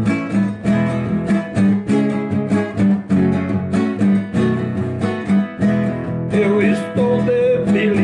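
Acoustic guitar strummed in a steady rhythm, playing an instrumental passage of a gospel song; a voice starts singing about six seconds in.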